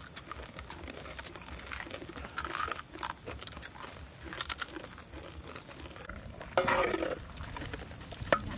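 Crunching and chewing as several people bite into crisp toasted rice crust, in short scattered crackles. About two-thirds of the way in there is a louder, short falling sound, and near the end a metal ladle clinks sharply against a wok.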